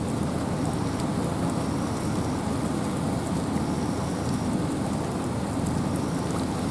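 Wind and rain in a forest: a steady rushing with a deep rumble, with scattered raindrops ticking over it.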